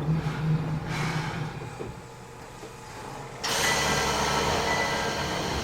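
Cabin sound of a Matsumoto Electric Railway 3000-series electric train: a steady low motor hum at first that fades into a quieter stretch, then a sudden rise to a louder, wide noise about three and a half seconds in, with a faint thin squeal near the end.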